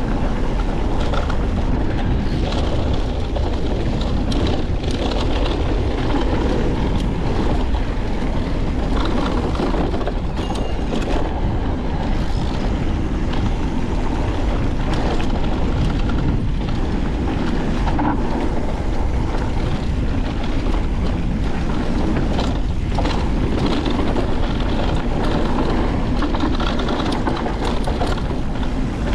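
Wind buffeting the microphone, with the tyres of a Niner WFO e9 electric mountain bike rumbling over a rocky dirt trail on a fast descent and the bike knocking and rattling over bumps throughout.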